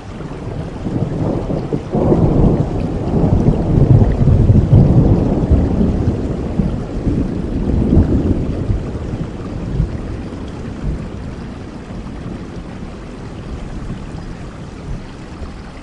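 Steady rain with a long roll of thunder that builds about two seconds in, peaks a few seconds later with a second swell, and dies away over the following seconds.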